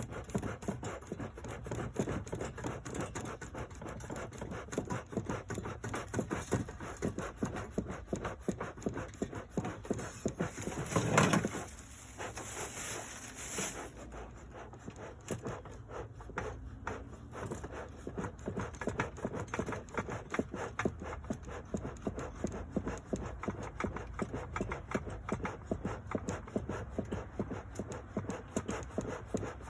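Bee smoker's bellows pumped over and over to feed air to the burning pine straw, a steady run of short puffs, with one louder rush about eleven seconds in.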